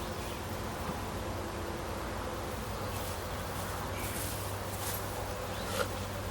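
Honeybees buzzing steadily around an opened hive, with a faint knock near the end.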